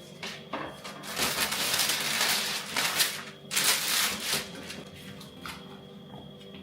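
Crinkly rustling and crushing handling noise in two long bursts, with a few small clicks.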